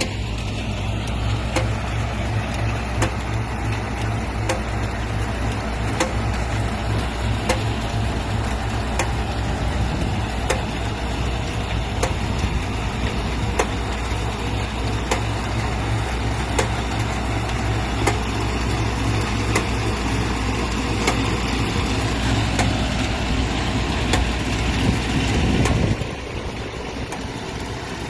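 Tractor engine running steadily, pulling a transplanter, with light clicks repeating through the hum. Near the end the engine hum cuts off abruptly and a quieter mechanical sound remains.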